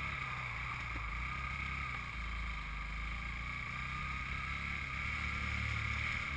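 Honda CM200T's small air-cooled parallel-twin engine running steadily while the motorcycle is ridden.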